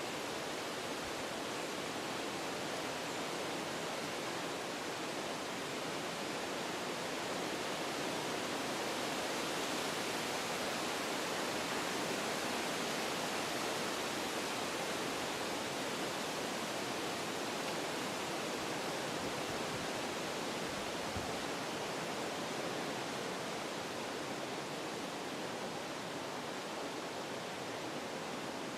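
Wind blowing through forest trees, a steady rushing of leaves and branches that swells a little in a gust near the middle, then eases.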